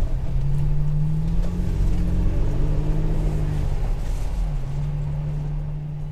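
Toyota pickup truck's engine running under way, a steady low hum whose pitch wavers a little, settles lower about halfway through, and gradually gets quieter.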